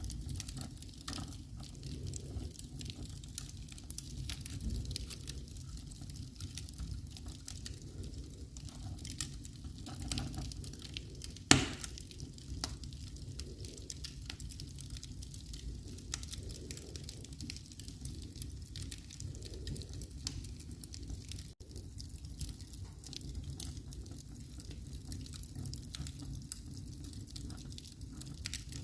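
Fire burning in a fireplace: a steady low rumble of flame with constant small crackles and pops, and one sharp, much louder pop about eleven and a half seconds in.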